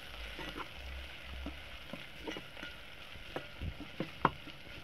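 Chopped onions, ginger and garlic sizzling in oil in a metal pot while a metal spoon stirs them, scraping and knocking against the pot's side. The spoon's knocks come irregularly, and the sharpest is about four seconds in.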